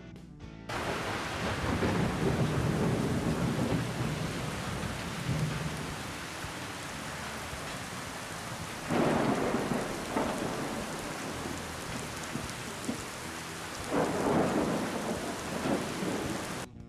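A thunderstorm: steady heavy rain with rolling thunder, a long low rumble first and then two louder claps, one about halfway through and one later. It starts suddenly just under a second in and cuts off abruptly near the end.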